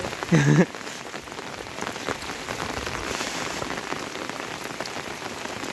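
Steady monsoon rain falling, with many small drops ticking on a surface. A brief human voice sounds about half a second in.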